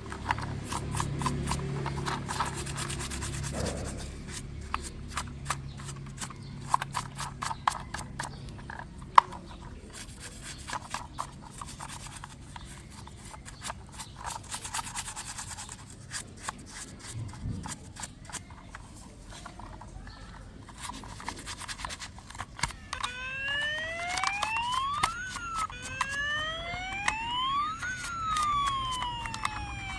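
Quick clicks and rubbing as a small plastic toy is handled, then about three-quarters of the way in a toy police car's siren switches on, wailing up and down in slow sweeps.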